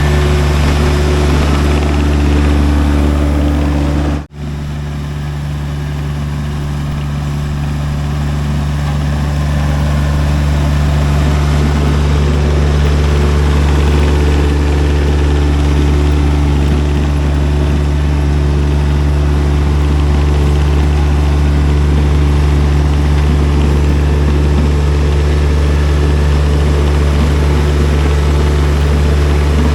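Engine of a Baumalight TRL620D mini skid steer running steadily, with a short break about four seconds in, after which it grows a little louder.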